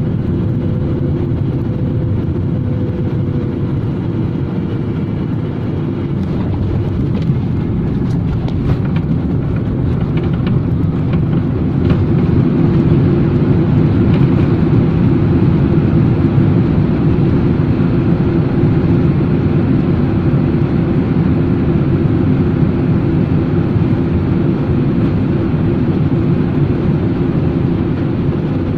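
Airliner cabin noise: a loud, steady rumble of engines and airflow, with a faint thin whine in the first few seconds. It grows a little louder about twelve seconds in and stays at that level.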